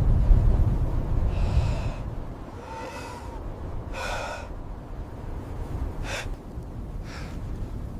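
A series of short, heavy gasping breaths, the first three with a voiced edge, over a low rumble that is loud for the first two seconds and then drops away.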